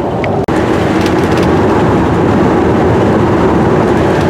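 Steady road and engine noise of a moving vehicle, with a faint steady hum in it. The sound drops out for an instant about half a second in, then carries on unchanged.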